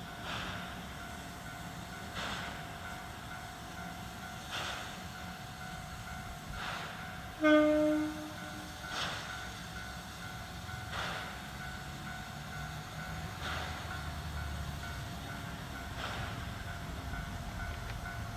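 C11 steam locomotive standing or moving at the station, giving soft puffs about every two seconds over a faint steady hiss, with one short whistle blast about seven and a half seconds in, the loudest sound.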